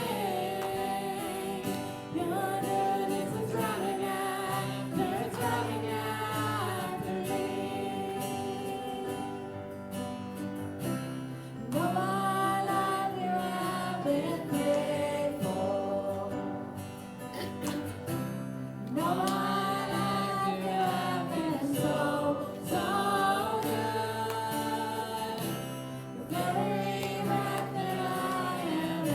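Gospel song: voices singing long, held phrases together over a steady instrumental backing.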